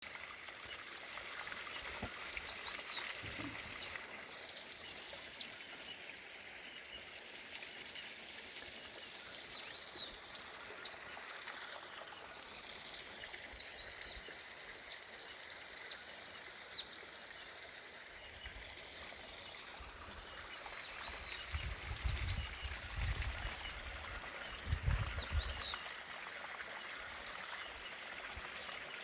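A valley stream trickling and flowing steadily while a bird repeats short, rising-and-falling whistled phrases in several bouts. A few low rumbles come about three quarters of the way through.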